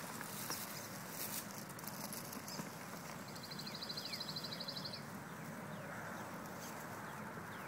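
Outdoor background with birds chirping in short downward-sweeping notes, and a quick, rapid trill about three seconds in.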